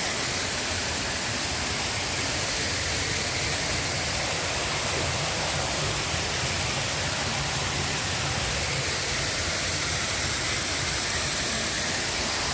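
Steady rush of a waterfall and cascading brook water, an even unbroken hiss with no changes.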